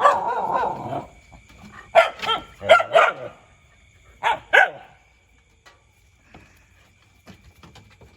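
Dogs barking in play: a burst of noisy calls at the start, then quick pairs of short sharp barks over the next few seconds.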